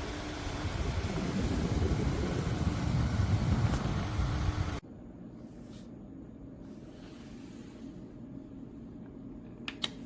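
Small USB desk fan blowing air onto the microphone: a low rumbling wind noise that grows louder, then cuts off abruptly about five seconds in, leaving a fainter steady hiss. Two quick clicks near the end.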